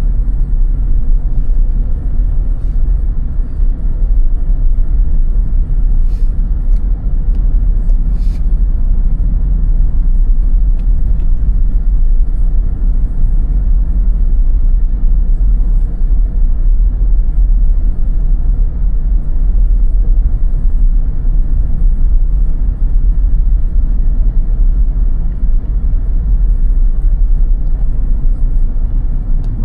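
Steady low rumble of a car driving, with engine and road noise heard from inside the cabin. A couple of faint clicks come partway through.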